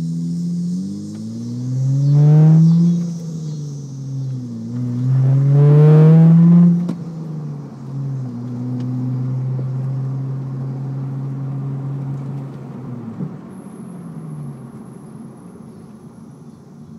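Honda Accord's 3.0-litre V6, with an exhaust cutout just after the last catalytic converter, heard from inside the cabin as the car accelerates through the gears of its six-speed manual. The engine note rises, drops at an upshift about three seconds in, and climbs again to its loudest about six seconds in. After another upshift around seven seconds it holds a steady cruise, easing lower near the end.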